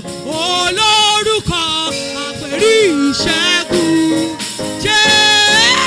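Gospel worship singing: a solo voice sings an ornamented, wavering melody over sustained accompaniment chords.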